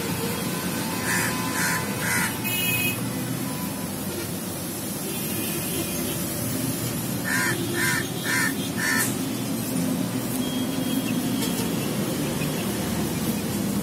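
Short, harsh bird calls in runs, three about a second in and four more about seven seconds in, over a steady low background rumble.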